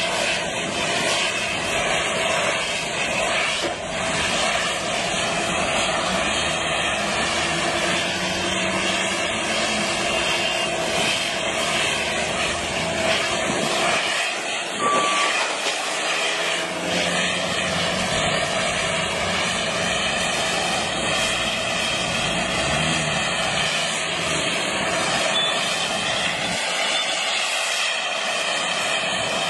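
Steady aircraft engine drone, with several high whining tones that waver slowly in pitch.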